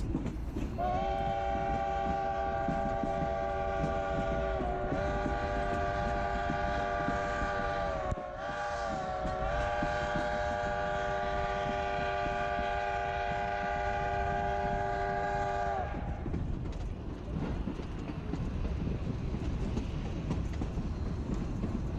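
Narrow-gauge steam locomotive's chime whistle sounding the grade-crossing signal, long, long, short, long, over the steady rumble and clatter of the train rolling along the track. The whistle stops about sixteen seconds in, leaving the train's running noise.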